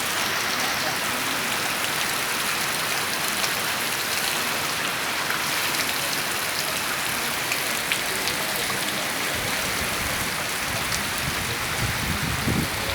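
Steady rain falling, a dense even hiss of rain on surfaces with scattered individual drop ticks.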